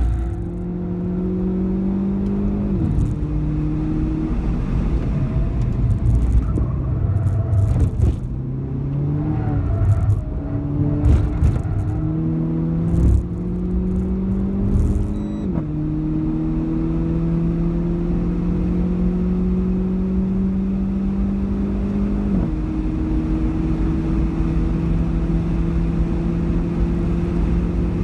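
Renault Clio 4 RS's 1.6-litre turbocharged four-cylinder heard from inside the cabin under hard acceleration, its pitch climbing and then dropping at each upshift. The clearest shifts come about three seconds in, just past halfway and about three-quarters through, with a few clicks in the middle stretch.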